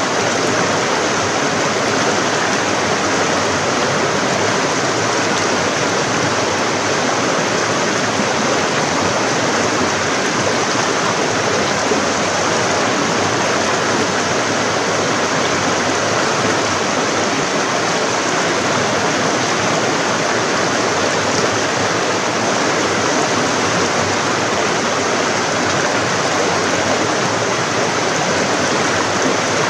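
Forest stream running over rocks: a steady rush of flowing water.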